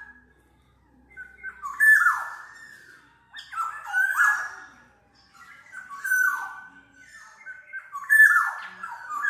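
Black-naped oriole calling: short phrases of fluty whistles mixed with harsh, nasal squawking notes, repeated about every two seconds.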